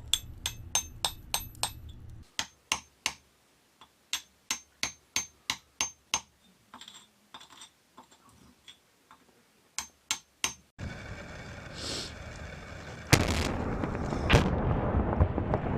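Hand hammer and chisel striking stone: quick runs of sharp, ringing taps about four a second, with short pauses between the runs. About two-thirds of the way through the taps stop and a steady noisy background takes over, with one loud knock a few seconds later.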